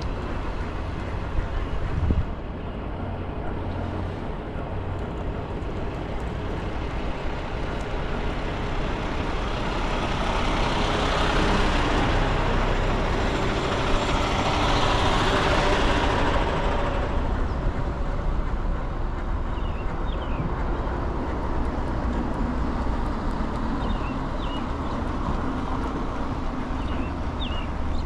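Street traffic and road noise heard from a moving scooter, with a steady low rumble. The noise swells about ten seconds in, as of a larger vehicle going by, and eases off after about seventeen seconds.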